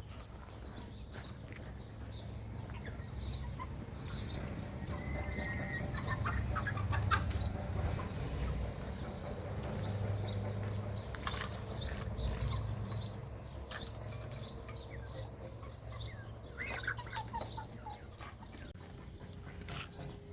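Small birds chirping in short, quick, repeated calls over a steady low hum.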